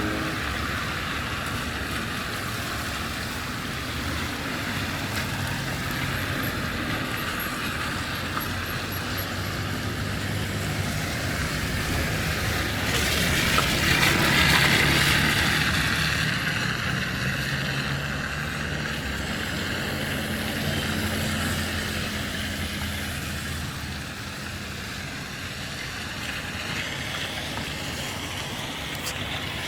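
Road traffic running past on a city street, with engine hum throughout and one vehicle passing close and loud about halfway through.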